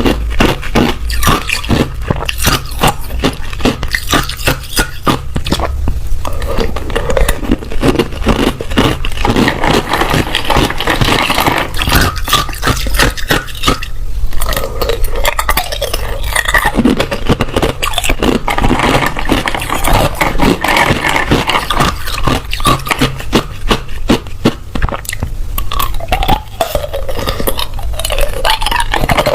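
Ice being bitten and chewed close to the microphone: a dense, continuous run of sharp cracks and crunches with brief lulls.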